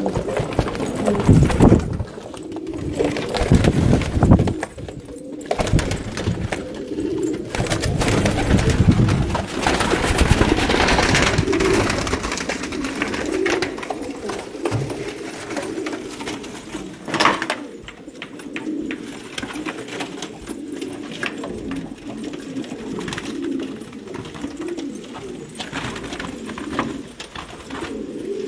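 Domestic pigeons cooing over and over, several calls overlapping, with low rumbling in the first few seconds and one sharp knock about two-thirds of the way through.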